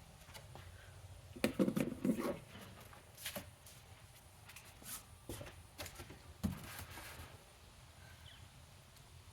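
A cardboard box being handled and opened: a quick cluster of rustling knocks about a second and a half in, then scattered thuds and clicks.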